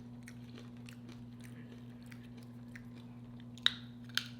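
Close-miked chewing of food, with soft crackling mouth clicks and two louder crunches near the end, over a steady low electrical hum.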